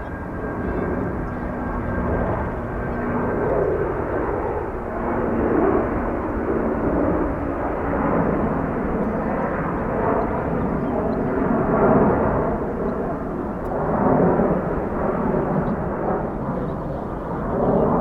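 Jet airliner engines running loud and steady, with a dense rushing noise that swells and eases every few seconds.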